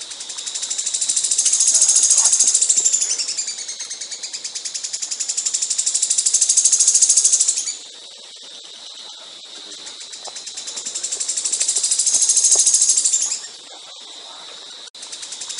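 Songbird singing long, very rapid high-pitched trills, each swelling in loudness over several seconds and then cutting off abruptly. A first long trill dips lower in pitch in its middle and runs for about eight seconds; after a pause of about two seconds a second, shorter trill follows, and a third starts right at the end.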